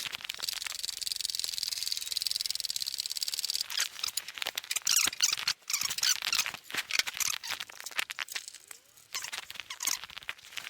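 Metal rattling and squeaking of workshop gear being moved and handled: a fast, steady rattle for the first few seconds, then irregular clicks and knocks.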